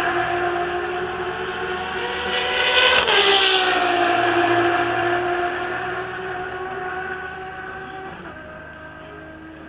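Ferrari race car engines passing at speed. About three seconds in, one car goes by and its engine note drops sharply in pitch, then holds steady at high revs and fades into the distance. Near the end the pitch steps down once.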